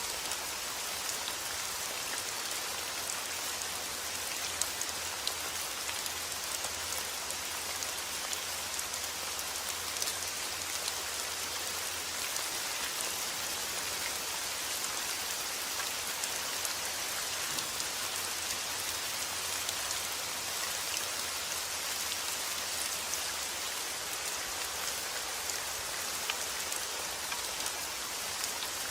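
Steady rain falling, with many single drops heard as short sharp ticks over an even hiss.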